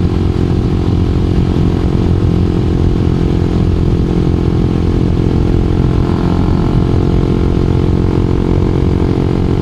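2012 Honda CBR250R's single-cylinder engine running at a steady pitch while the bike is ridden.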